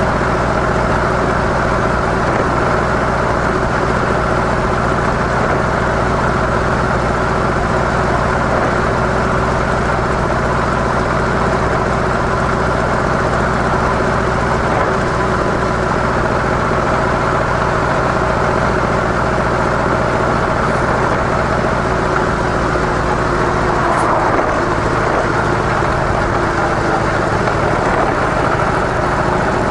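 Harley-Davidson CVO Softail's V-twin engine running steadily through its stock mufflers, holding an even pitch with only a brief wobble about two-thirds of the way through.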